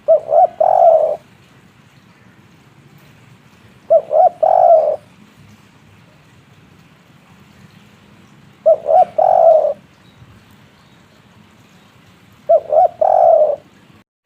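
Spotted dove cooing its three-note 'kuk 3' song: four phrases about four seconds apart, each two short notes followed by a longer third note.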